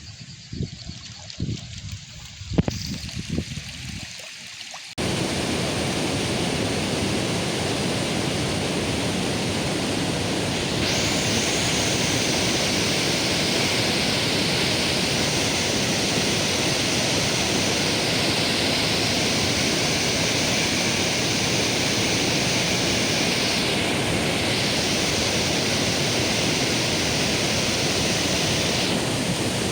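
Rushing water of a waterfall, a loud steady roar that starts suddenly about five seconds in after a few scattered knocks. About eleven seconds in a steady higher hiss joins it and holds until shortly before the end.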